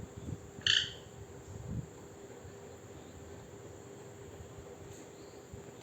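A pet parrot gives one short, high chirp about a second in, over a steady faint hum and a high hiss, with a few soft low thumps.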